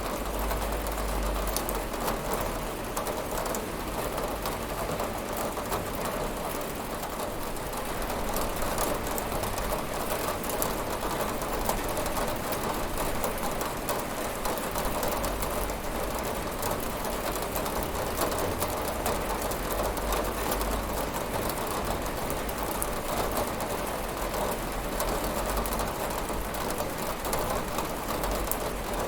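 Steady rain falling on a window: an even hiss of rain with fine ticks of drops over a low rumble, holding level throughout.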